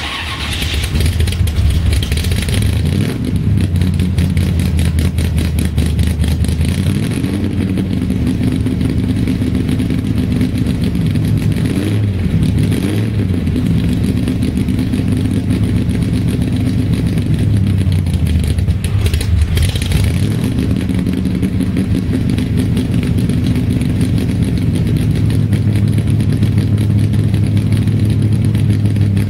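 A/FX drag car's engine running after a cold start, idling with a rapid, uneven firing pulse and revving up briefly a few times as it warms.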